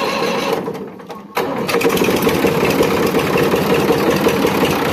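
Massey Ferguson 5245 diesel tractor engine running, then shut off so that it dies away, and started again about a second and a half in, after which it runs steadily. The switching is a demonstration of its intermittent start/stop fault.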